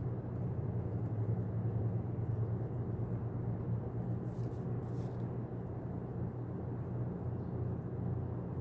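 Steady low rumbling background noise, with a few faint short clicks about halfway through.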